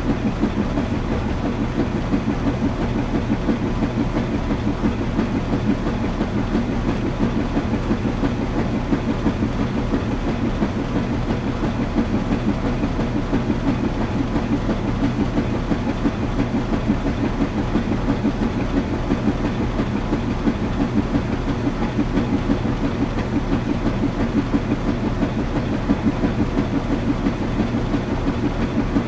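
Washing machine running steadily: a low motor hum under a rapid, even churning pulse that doesn't let up.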